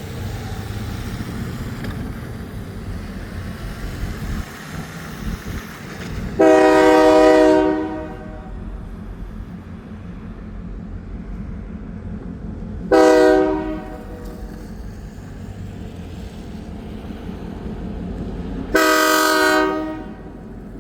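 Diesel locomotive air horn sounding three blasts, long, short, long, over the steady low rumble of the train.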